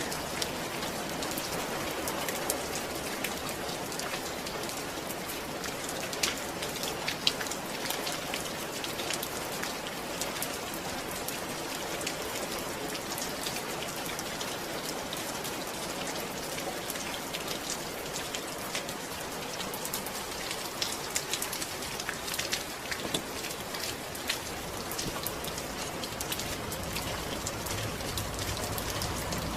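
Steady rain falling, with many sharp hits from single drops scattered through it.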